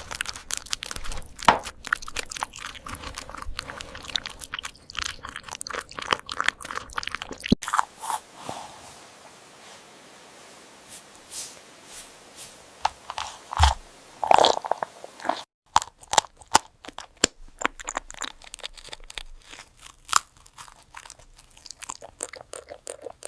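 Close-up crunchy chewing and biting of a hedgehog eating cake: rapid, dense crunches, thinning to a few separate bites in the middle, then dense again.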